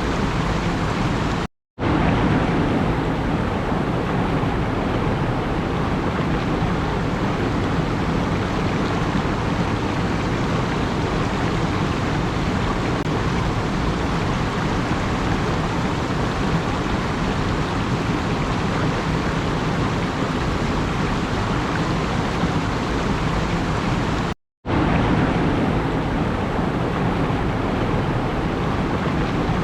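A steady, even rushing noise with no distinct events. It cuts to complete silence for a fraction of a second twice, about one and a half seconds in and again a few seconds before the end.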